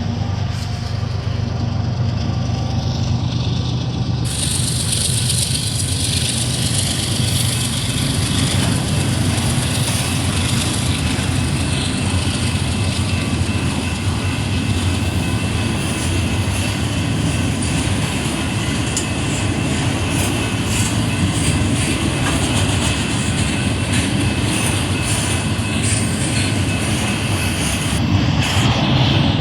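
Union Pacific intermodal freight train passing: diesel locomotive engines running for the first few seconds, then the cars rolling by with a steady rumble of wheels on rail and scattered clicks.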